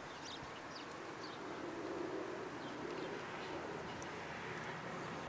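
Quiet outdoor background with small birds chirping and a dove cooing softly.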